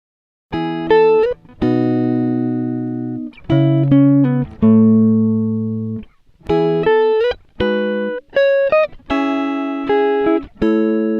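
Background music: a slow melody of single plucked guitar notes, each ringing out and fading, with short gaps between phrases and a few notes sliding in pitch. It starts about half a second in, after the previous track cuts off.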